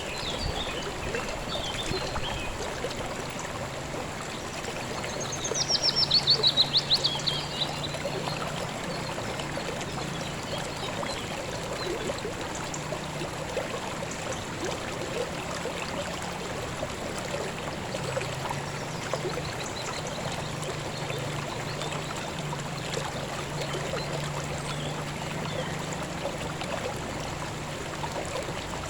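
River water flowing steadily over stones. A small bird calls with a quick descending trill about six seconds in, and there are a few faint chirps at the start.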